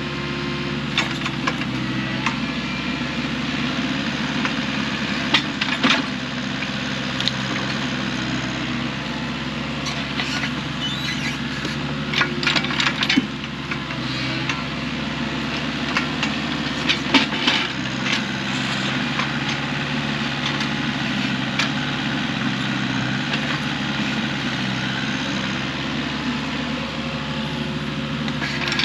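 An engine running steadily, with repeated sharp knocks and cracks of wood being handled, in clusters over the engine.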